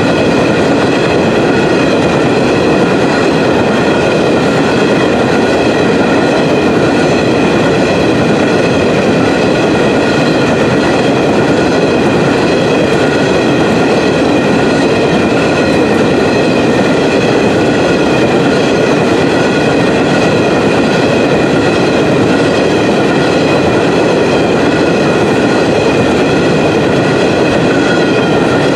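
Covered hopper cars of a long potash freight train rolling steadily past, making a continuous rumble of steel wheels on rail with steady high-pitched ringing tones above it.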